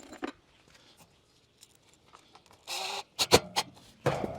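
A short scrape, then about four sharp clicks in quick succession, from fitting a metal conduit flex clip onto a wire fence panel.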